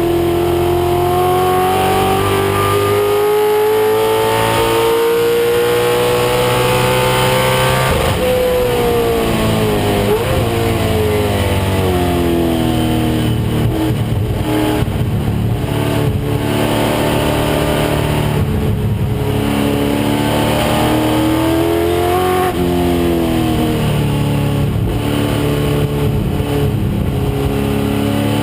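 1996 Ford Mustang race car's engine running hard, its pitch climbing steadily for about eight seconds, then falling sharply and rising and falling again several times as it goes through the gears.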